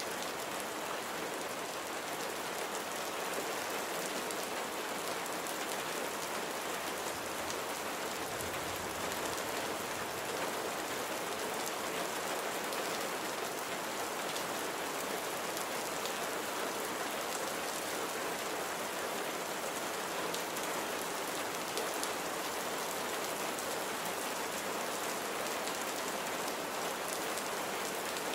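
Steady rain falling on surfaces, a continuous hiss with faint scattered drop ticks.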